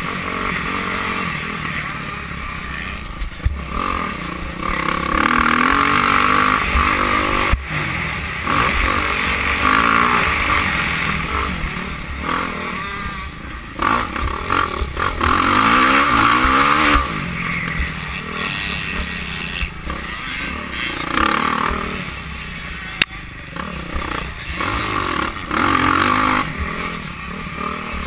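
Motocross dirt bike engines racing, revving up and down repeatedly as the bikes accelerate and pass, rising and falling in loudness.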